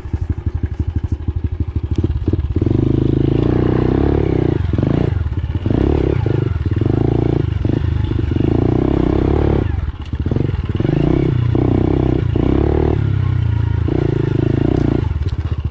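Pit bike engine revving hard, the throttle opened and shut over and over in bursts of a second or two with short dips between, as the bike is ridden over jumps and whoops.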